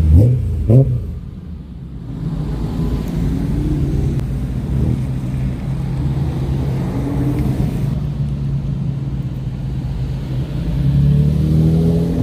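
Car engine running close by, revved in two quick sharp blips right at the start, then idling and rising and falling in pitch with lighter throttle.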